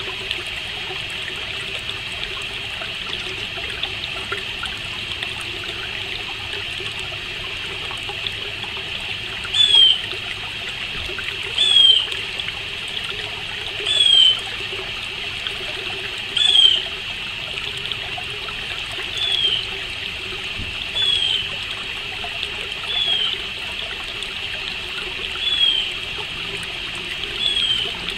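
A bird repeating one short, downward-sliding call about every two seconds, starting about ten seconds in, nine calls in all, over a steady background hiss of trickling water.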